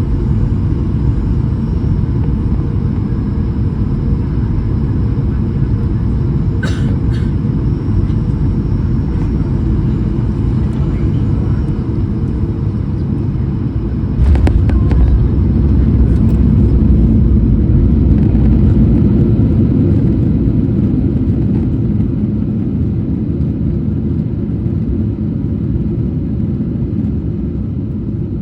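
Boeing 737-800 jet airliner on arrival: a steady, loud low rumble that gets suddenly louder about halfway through, with a couple of brief clicks, one about a quarter of the way in and one at the step.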